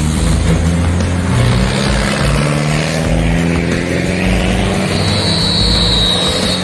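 Truck engine running steadily, its pitch shifting slightly. A thin, high steady tone comes in about five seconds in.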